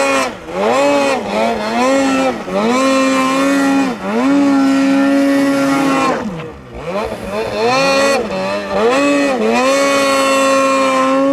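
Snowmobile engine revved up and down in a series of quick blips, then held at high revs for a couple of seconds; the revs drop away about six and a half seconds in, then it blips again and holds high near the end.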